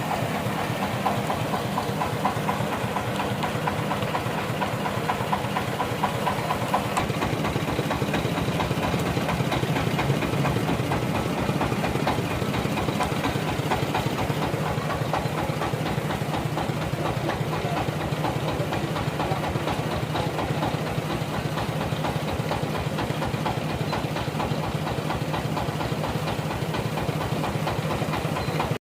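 A combustion engine running at a steady speed, its firing pulses even and unbroken.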